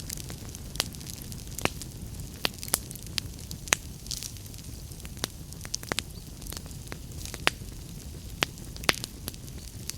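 Wood fire crackling: irregular sharp pops and snaps, a few louder ones, over a steady low rumble and hiss.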